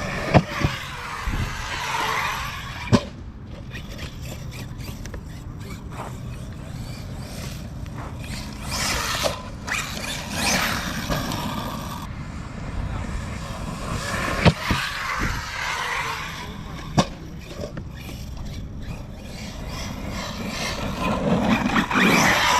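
Arrma Notorious RC stunt truck being driven hard: its brushless motor whines up and down in pitch as the throttle is worked, with tyres scraping over the ground and several sharp knocks from landings and hits.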